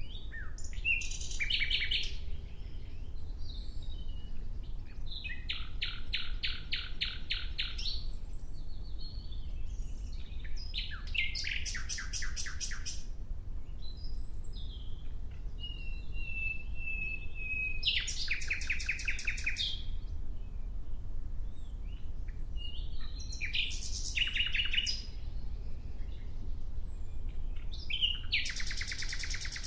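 Nightingale singing: phrases of fast repeated notes, about six of them a few seconds apart, with one long, slightly falling whistle in the middle leading into a phrase. A steady low rumble runs underneath.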